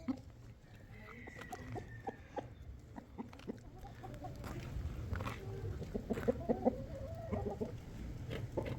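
Chickens clucking in short calls, busiest past the middle, with scattered light knocks and a low steady hum underneath.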